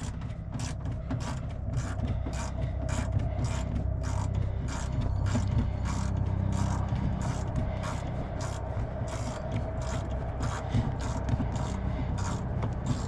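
Socket ratchet clicking steadily, about three clicks a second, as it backs out a 5/16 bolt from the inside of a car door, over a steady low hum.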